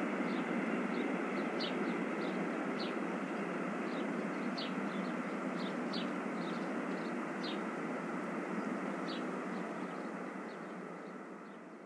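Steady noise of a train running on the line by a railway yard, with short high chirps every second or so; it fades out near the end.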